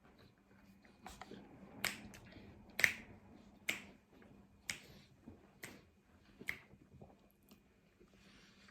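Close-up chewing of a crispy wrap-based lahmacun: a run of about seven sharp crunching clicks, roughly one a second.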